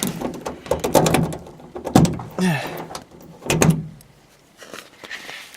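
Door of a 1973 Dodge W200 pickup being unlatched and pulled open: several clicks and clunks from the latch and door.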